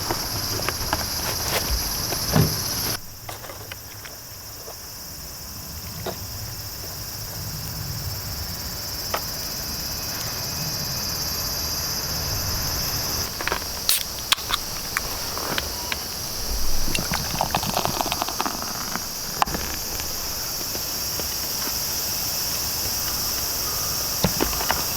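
Summer insect chorus, a steady high-pitched shrill. One layer of it cuts out about three seconds in and comes back about halfway through. Scattered light clicks and knocks sound over it.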